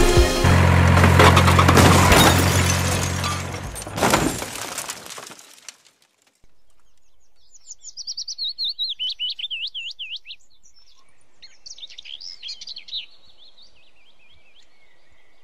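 Background music with a deep bass line fades out over the first few seconds, with a single knock about four seconds in. After a brief silence, a bird sings two runs of rapid chirping notes.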